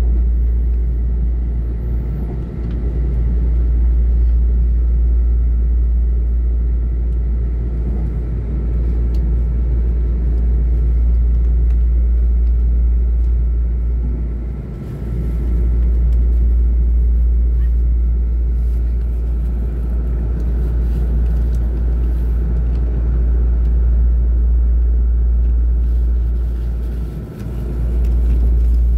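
Moving passenger train heard from inside the carriage: a steady low rumble with a faint steady whine. The rumble dips briefly three times.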